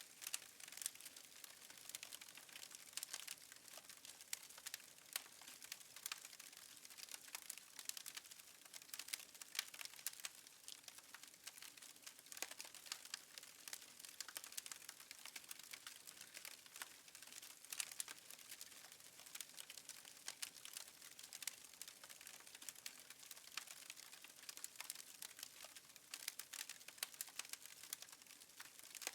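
Fireplace fire crackling faintly, with many small irregular pops over a soft hiss.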